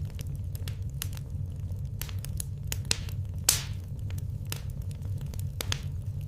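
Wood fire in a fireplace crackling, with irregular sharp pops and snaps, the loudest about three and a half seconds in, over a steady low rumble.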